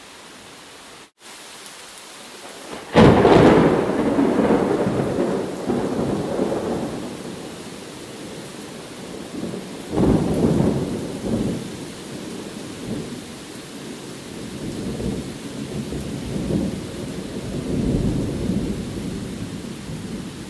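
Steady rain with thunder: a sharp clap about three seconds in rolls into a long rumble, a second clap comes about ten seconds in, and further rolling rumbles swell and fade after it. The sound drops out briefly about a second in.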